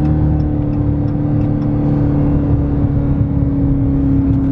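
Dodge V8 engine running steadily under way in third gear, heard from inside the cabin along with road noise; its pitch eases slightly lower near the end.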